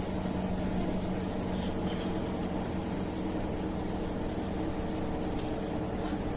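Steady running noise of a MAN A21 city bus heard from inside the passenger cabin: an even engine hum and rumble with a faint high whine, and a few faint clicks.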